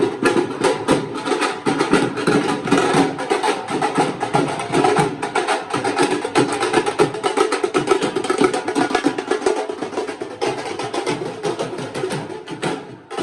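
Temple aarti percussion: drums and clanging metal struck in a fast, steady beat, dipping briefly near the end before going on.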